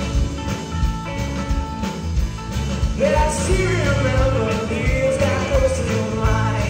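A rock and roll band playing live, with drums, bass and electric guitar. A voice starts singing about three seconds in.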